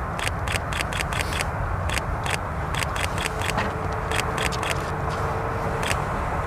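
Steady low rumble of jet aircraft at an airport, with many irregular sharp clicks over it and a faint whine held through the middle.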